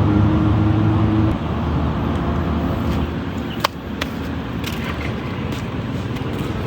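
An engine running with a steady low hum that drops away just over a second in, leaving a steady rushing noise with a couple of sharp clicks.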